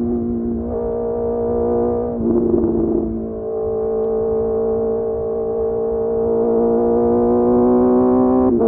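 Honda CBR650R's inline-four engine, fitted with a Mivv MK3 exhaust, running under way at steady revs, with a few changes in engine pitch and a rougher throttle change between about two and three seconds in.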